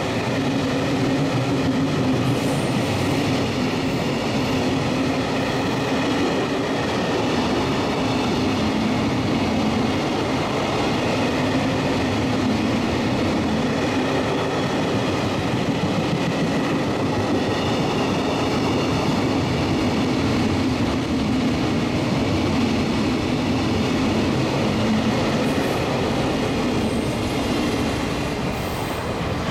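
Container and tank wagons of a freight train passing a station platform at speed: a steady heavy rumble and rattle of steel wheels on the rails, with high ringing tones over it. It fades near the end as the last wagons go by.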